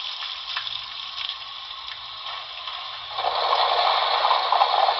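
Coal fill and auger sound effect from the Paragon4 sound decoder of an HO-scale Broadway Limited NYC Hudson model, played through the locomotive's small onboard speaker: a steady mechanical clatter with faint ticks, with a louder rushing noise coming in about three seconds in.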